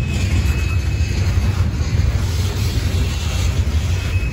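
Norfolk Southern coal hopper cars rolling past: a steady heavy rumble and rattle of steel wheels on the rails, with a faint high tone briefly at the start and again near the end.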